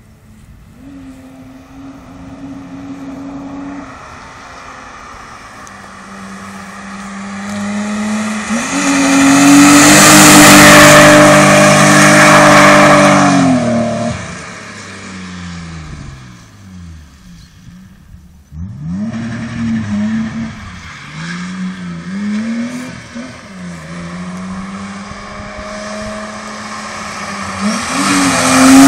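BMW E30 engine driven hard along a winding road. The revs climb and hold, loudest as the car passes close about ten seconds in, then fall away in falling sweeps as it lifts off. The revs rise and fall again through the bends, and it comes close and loud again near the end.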